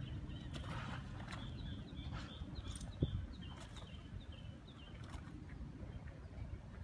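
A bird calling off-picture: a run of short, high chirps that each slide downward, about three a second, starting about a second and a half in and stopping near the five-second mark. A steady low rumble runs underneath.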